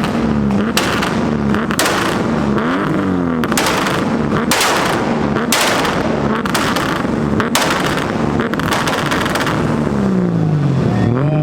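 A tuned car engine revving on a two-step launch limiter, firing repeated bursts of loud exhaust bangs. The engine pitch rises and falls between the bursts.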